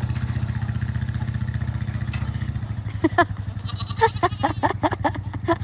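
Goats bleating several times, with short calls starting about three seconds in, over the steady idle of the small farm vehicle's engine.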